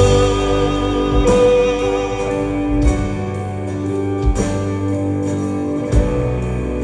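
Live band playing an instrumental passage of a slow ballad: guitar and sustained chords, with a few soft percussive hits about every second and a half.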